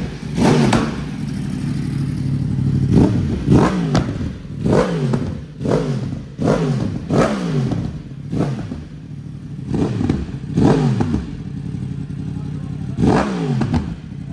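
2024 Yamaha R1M's crossplane inline-four idling and being blipped about eleven times, the revs rising sharply and dropping back each time. It runs through an Akrapovic decat pipe and end can with no catalytic converter.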